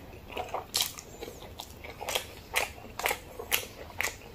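Close-miked chewing of a mouthful of jajangmyeon (black bean sauce noodles), with wet mouth clicks and smacks about twice a second.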